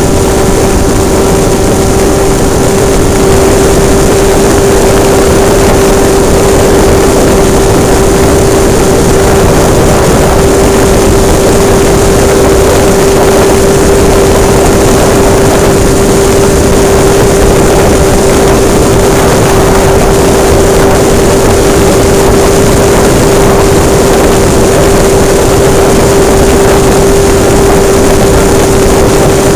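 Hobbistar 60 radio-controlled model airplane's engine heard close up from on board in flight, running at a steady high pitch that barely changes, over a constant rushing noise.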